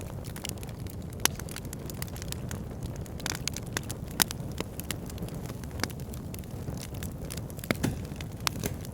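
Backyard fire pit burning: a steady low rumble of flames with frequent sharp crackles and pops, a few louder pops standing out about one, four and eight seconds in.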